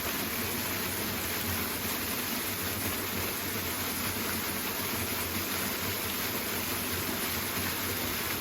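Powerful waterfall rushing, a steady, unchanging wash of falling water.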